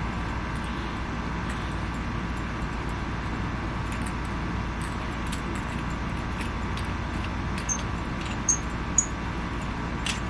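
Small clicks and light taps from handling the little metal and plastic parts of a BB-gun pistol's sights, with a few sharper ticks about eight to nine seconds in. A steady hum runs underneath.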